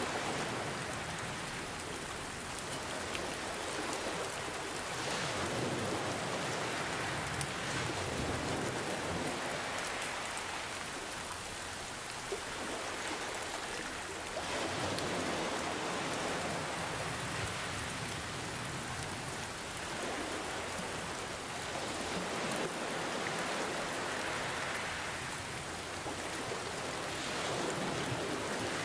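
Steady rain with ocean waves washing in. The hiss swells and eases every few seconds.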